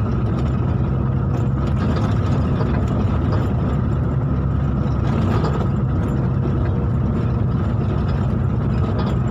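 Motor vehicle running steadily on the move: a constant low engine drone mixed with road noise.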